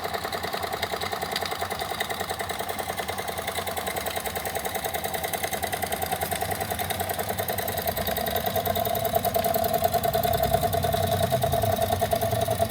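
Two Jensen #70 toy live steam engines running together at low speed, with a fast, steady, even rhythm that grows a little louder about eight seconds in.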